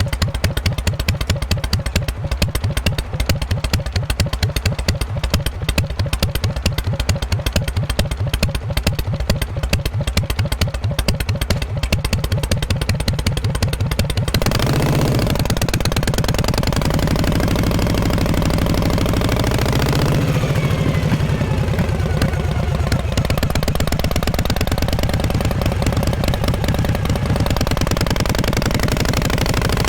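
Exhaust of a 1948 Harley-Davidson Panhead V-twin, running with slow, separate exhaust beats. About halfway through it changes abruptly to a denser, steadier run at higher revs.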